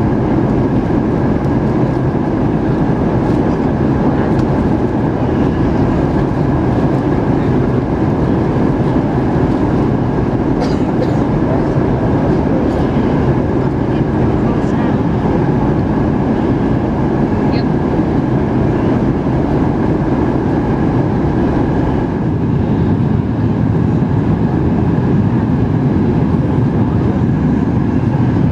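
Steady cabin noise inside a Boeing 737-8 MAX in flight: the CFM LEAP-1B engines and airflow make an even rumble with a faint steady whine, and a couple of brief clicks come about a third and two-thirds of the way through.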